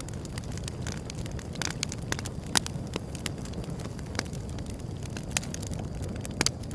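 Wood fire crackling: irregular sharp pops and snaps over a low steady rumble, with louder pops about two and a half seconds in and near the end.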